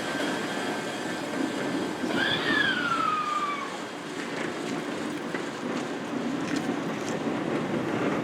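Sanyo Electric Railway 5000 series electric train running slowly into the station platform, a steady rumble with a brief squeal, falling in pitch, about two seconds in.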